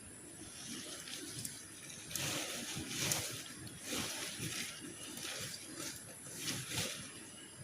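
Water sloshing and trickling in irregular bursts.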